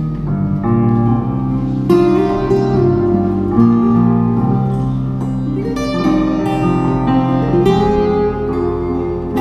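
Live instrumental music without singing: acoustic guitar and other plucked strings playing a melodic passage over sustained chords, with new notes struck every second or so.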